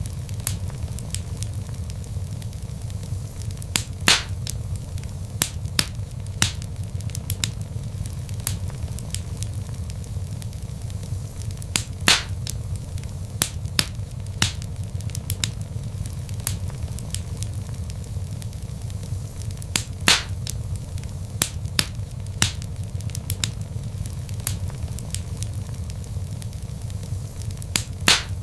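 Wood log fire crackling: irregular sharp pops and snaps, a few much louder than the rest, over a steady low rumble of the burning fire.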